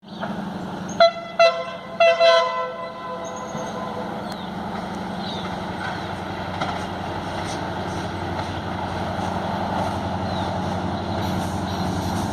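Diesel passenger train's horn sounding two short blasts and then a longer one about a second in, followed by the steady rumble of the train running.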